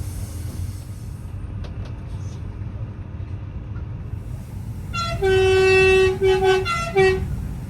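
Train running with a steady low rumble; about five seconds in, a train horn sounds one long blast followed by two shorter ones.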